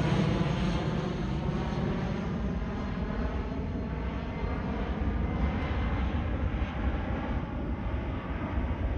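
Jet airliner climbing out overhead after takeoff, its engine noise a steady rush that eases slightly in the first couple of seconds.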